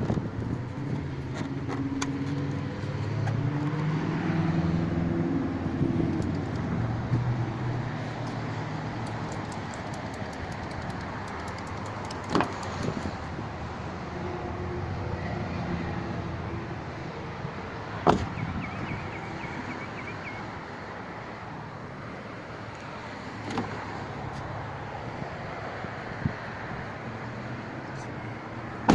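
Car engine running, its pitch rising and falling over the first several seconds, then steady, with a few sharp knocks scattered through the rest.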